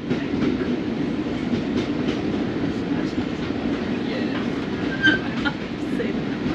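Railway carriage running along the track: a steady rumble with faint scattered clicks from the wheels and one louder click about five seconds in.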